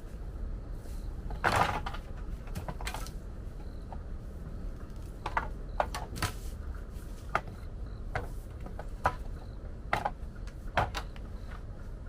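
Irregular light knocks and clicks of bamboo being handled, with a longer rustle about a second and a half in, over a steady low rumble.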